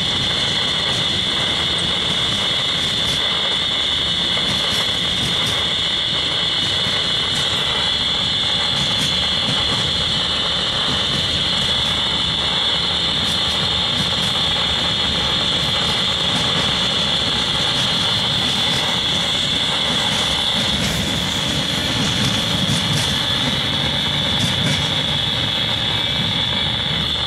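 Freight cars rolling past on jointed rail, with a steady wheel-on-rail rumble and a constant high-pitched whine over it.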